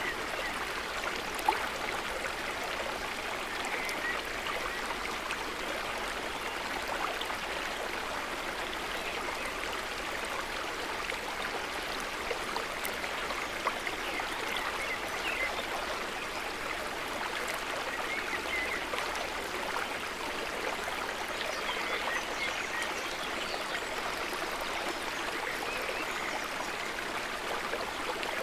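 A river or stream of running water flowing and babbling steadily, with small splashes and trickles, and one brief sharper splash or click about a second and a half in.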